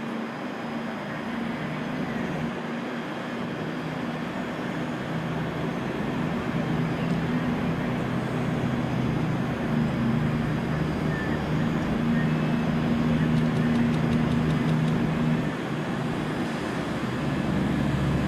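A train running at a station platform: a steady low hum that grows slowly louder.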